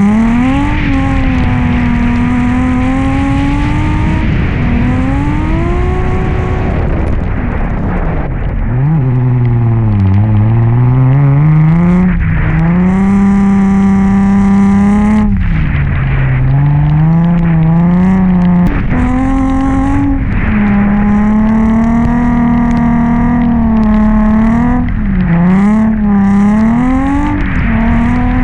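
Nissan 350Z's V6 engine revving up and down through a drift run, its pitch climbing and falling with throttle and shifts, with a deep drop about eight seconds in. Short bursts of high hiss come and go over the engine.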